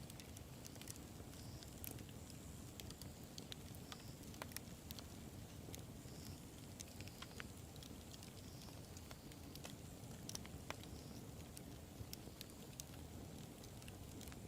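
Wood fire burning: a low steady rumble with frequent sharp crackles and pops at irregular intervals.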